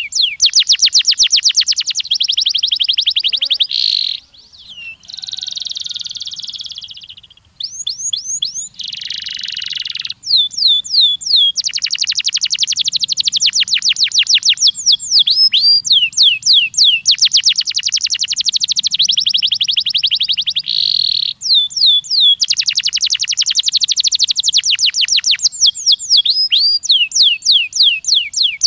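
Domestic canary singing a long song of rapid, rolling trills made of quickly repeated whistled notes, some sweeping up or down. The trills change from one syllable type to another, with buzzy, rattling phrases and a brief gap about four seconds in.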